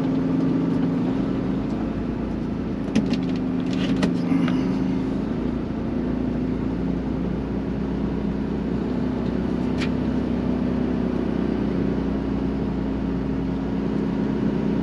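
Semi truck's diesel engine running steadily at low speed, heard from inside the cab, with a few short knocks and rattles about three to four and a half seconds in and once more near ten seconds.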